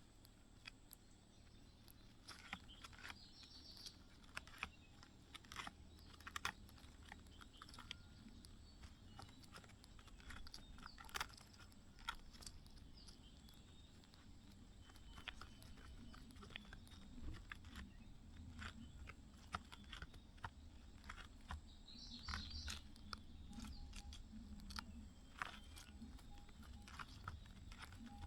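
Faint, scattered clicks and rustles of birds shifting about in a nest, with a couple of brief, soft high chirps.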